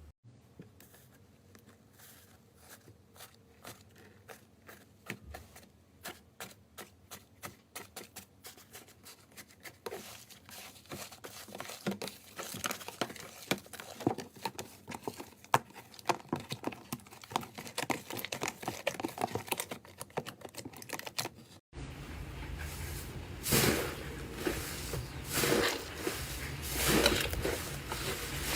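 Slime being squished and stretched by hand, making quick sticky clicks, crackles and pops. The clicking gets denser and louder partway through. After a sudden change in background about two-thirds of the way in, the pops are louder.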